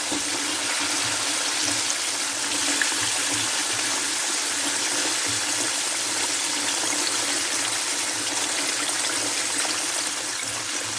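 Hot oil sizzling steadily as breaded chicken pieces deep-fry.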